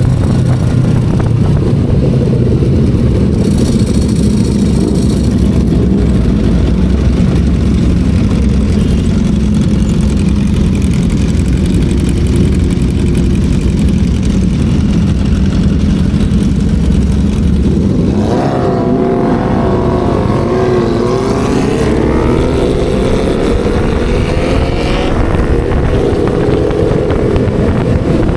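Motorcycle engine and exhaust heard while riding: a steady low drone for most of the stretch, then, about two-thirds of the way in, the engine pulls up with a rising pitch. The pitch dips briefly once, like a gear change, and goes on climbing.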